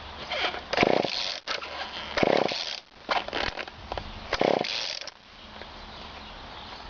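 Recoil pull-starter of a GTI 15 weed whacker yanked three times, each pull a rasping zip of the cord, with the cold engine not catching.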